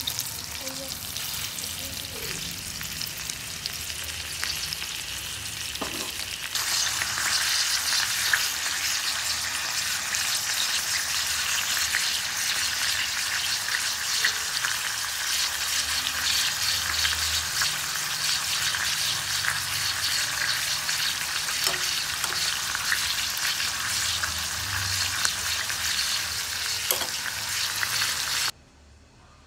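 Beef steaks frying in bubbling oil in a pan: a steady sizzle that grows louder about six seconds in and cuts off suddenly near the end.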